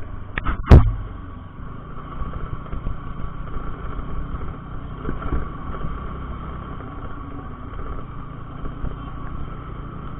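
TVS Ntorq 125 scooter riding along, its small engine running under steady wind and road rumble. There is one sharp knock less than a second in.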